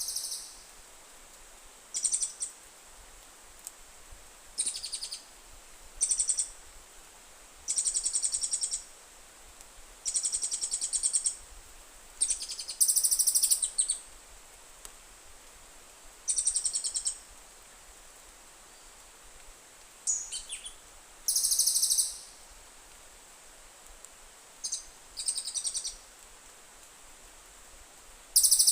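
A bird calling close by in short, high, harsh bursts, about a dozen of them, each lasting half a second to a second and a half, every one to two seconds.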